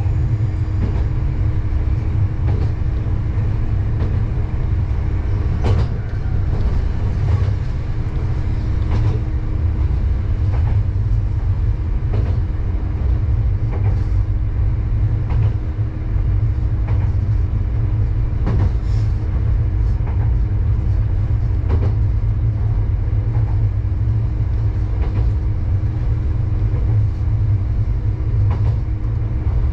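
Diesel railcar running steadily on a single-track local line, heard from the front of the car: a constant low engine and running rumble with a steady hum, and the wheels clicking over rail joints every second or few.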